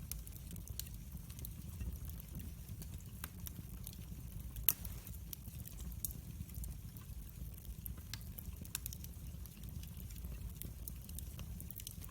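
Wood fire crackling in a fireplace, with irregular small pops over a low steady rumble, and one sharper pop about halfway through.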